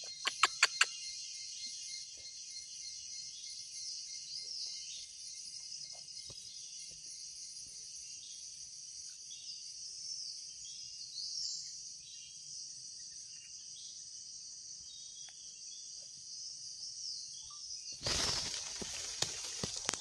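Steady high-pitched drone of forest insects with scattered small bird chirps. Four sharp clicks come just after the start, and a sudden rush of broad noise starts near the end.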